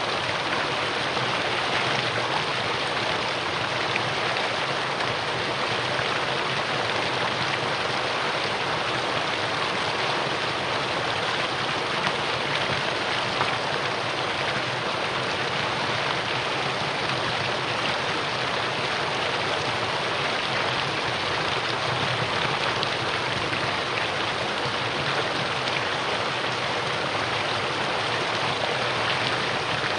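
Mountain stream rushing steadily over rocks in a valley, a continuous even rush of water.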